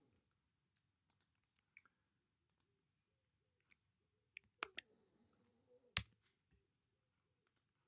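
Sparse, irregular clicks of a computer mouse and keyboard, with near silence between them. The clicks bunch up between about four and a half and six seconds in, and the loudest comes about six seconds in.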